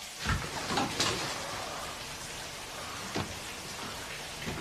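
Steady even hiss of background ambience with a few soft low thumps.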